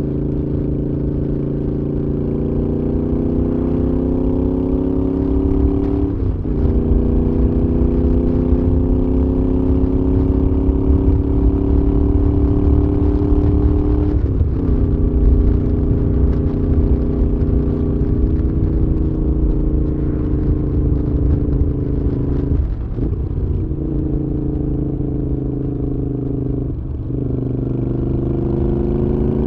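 Moto Guzzi V7's air-cooled transverse V-twin running through a Mistral exhaust under way. The engine note climbs steadily and drops back four times as the rider changes gear, over a constant low wind rumble.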